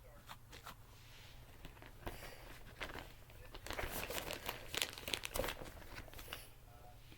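Crinkling and rustling of crinkly material being handled, in irregular crackly bursts that are busiest in the middle.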